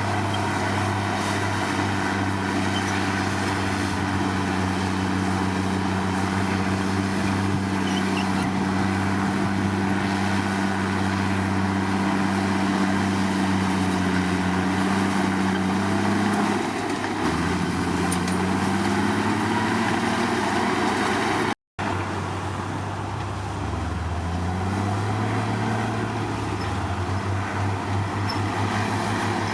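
Komatsu D53 bulldozer's diesel engine running steadily, its pitch dropping about seventeen seconds in and then climbing back as engine speed changes, with a further dip and rise near the end.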